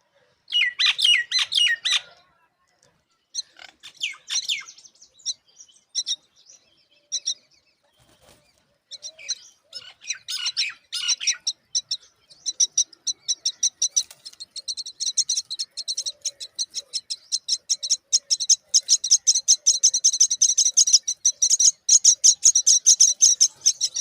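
Myna calls: a few short, harsh bursts of calling, then, about halfway in, rapid high chirping many times a second that grows louder toward the end, the begging of myna chicks being fed.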